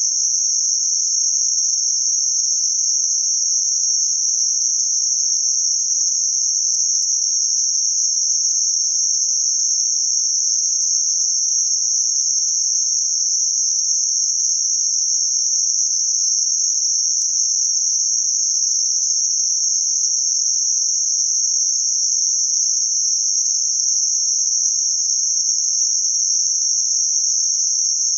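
Synthetic narrow-band noise centred around 6051 Hz: a steady, high-pitched hiss that never changes.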